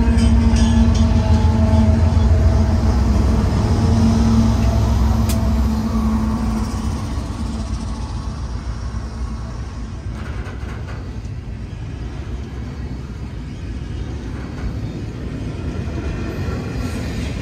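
Diesel freight train passing close by: a loud locomotive engine drone over a low rumble fades over the first several seconds, then a quieter steady rumble of the cars rolling on the rails.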